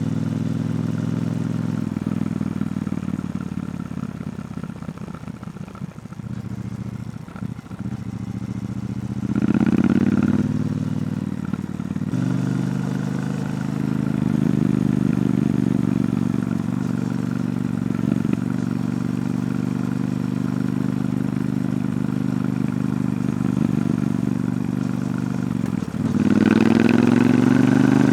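Triumph Bonneville T120 parallel-twin engine running through its stock exhaust while riding. It eases off to a quieter stretch early, then the pitch rises under acceleration about ten seconds in and again near the end.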